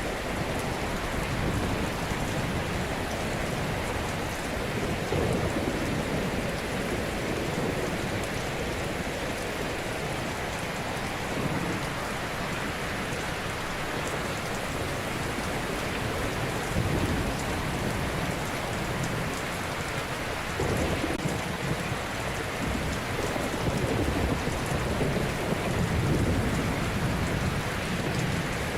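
Ocean surf: waves breaking and washing on a shore in a continuous hiss, with a low surge every few seconds.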